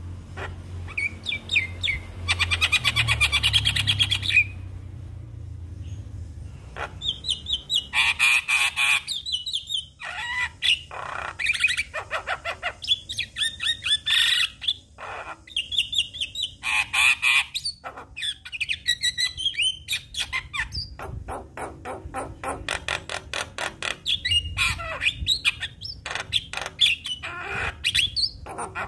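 Javan myna (jalak kebo) singing: a fast, varied string of whistled notes, chatters and harsh squawks, broken by rapid runs of clicks.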